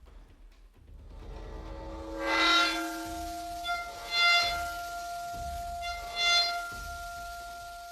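A metal Chladni plate bowed with a violin bow: three loud bowed strokes about two seconds apart, each a rich squealing tone, with the plate's pitch ringing on steadily between strokes as it settles into a resonant mode.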